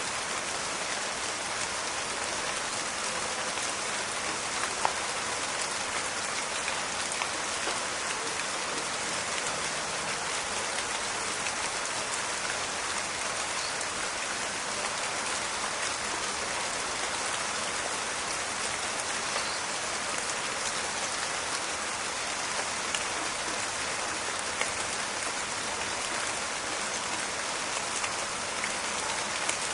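Steady rain pattering on foliage and ground, with scattered sharper drop hits standing out now and then.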